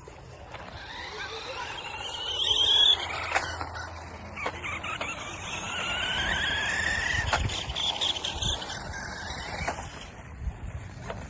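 Radio-controlled car motor whining, rising in pitch as the car accelerates, twice, with scattered sharp clicks.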